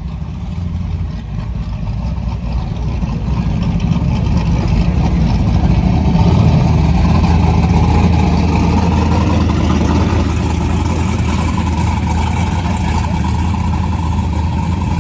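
Truck engine running hard under load. It grows louder over the first several seconds, then holds steady.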